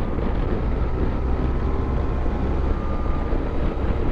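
Motorcycle engine running steadily at cruising speed, heard from the rider's seat with road and wind noise over the microphone.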